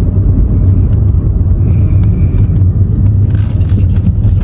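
A car driving: loud, steady low rumble of road and engine noise.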